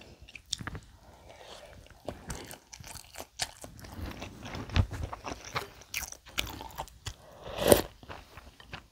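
Close-miked chewing of a mouthful of bibimbap, with many small wet clicks of the mouth, and one louder, longer eating sound a little before the end as she moves on to a bowl of ramen noodles.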